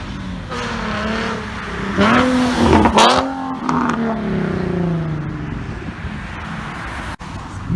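A car accelerating hard past, its engine revving up to the loudest point about three seconds in, with a sharp crack at the peak, then its pitch falling away as it goes by.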